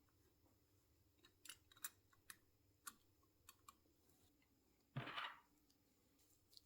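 Faint, sharp clicks of small metal parts being handled while new brake pads are fitted into a motorcycle brake caliper, about eight over a few seconds. Then one brief, louder scrape about five seconds in.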